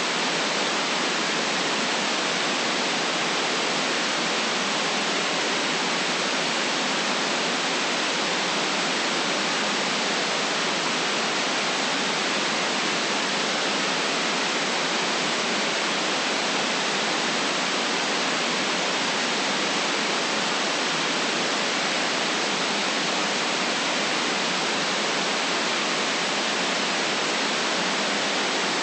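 Steady white-noise hiss, even and unchanging, with no deep bass.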